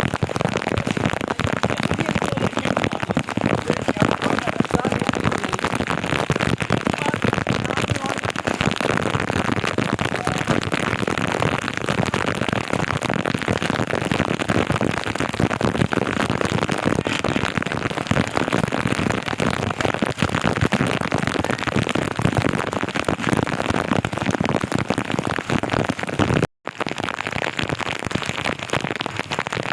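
Heavy rain pouring down, a dense crackle of drops hitting the ground. It cuts off sharply for an instant near the end, then carries on.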